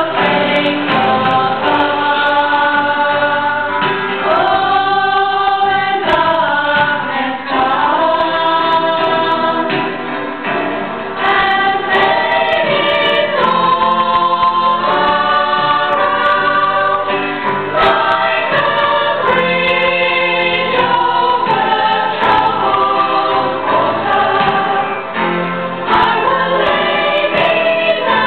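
A choir singing in harmony, long held notes changing every second or so.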